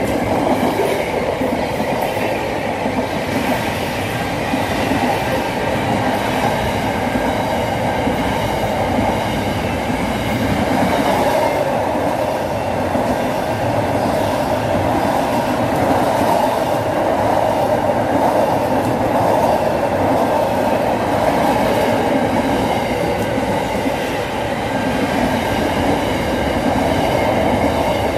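Container freight train wagons rolling past: a loud, steady rumble of wheels on rail with repeated clicks as the wheels pass over the joints.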